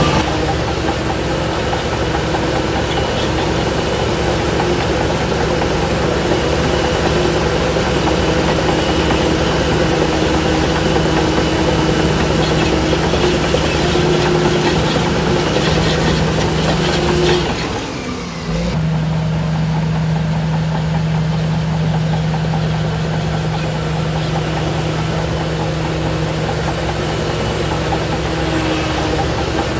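Heavy diesel engine of earthmoving machinery running steadily, with a brief dip in level and pitch about two-thirds of the way through before it runs on as before.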